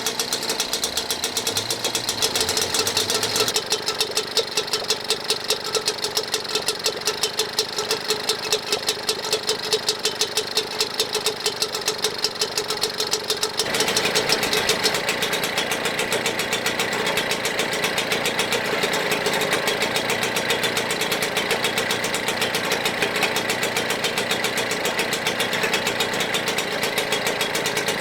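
British Seagull two-stroke outboard motor running steadily with a rapid, even firing beat, on its first run after a cylinder change. About halfway through its note turns fuller and the beat quickens.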